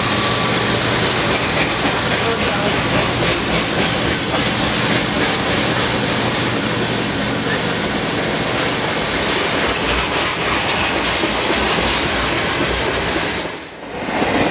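Freight train of tank cars rolling past close by: a steady rumble of steel wheels on the rails with some clacking. The sound dips briefly near the end.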